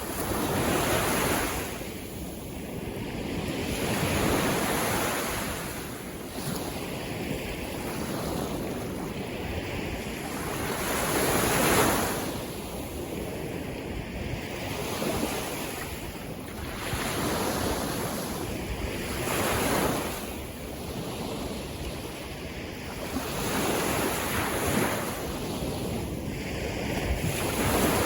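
Sea waves breaking and washing in, each surge swelling and falling back every few seconds, with wind buffeting the microphone.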